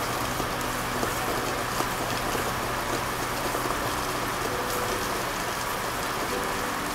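Steady rain falling: an even, dense hiss of many drops.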